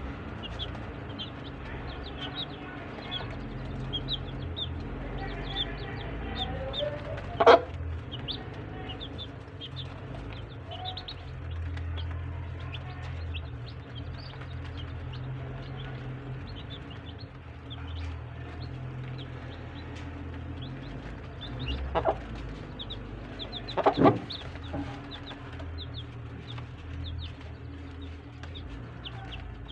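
Chickens: chicks peeping in rapid short high cheeps, with hen clucking, throughout. A few sharp knocks stand out above them: one about a quarter of the way in, and two close together about three-quarters of the way through.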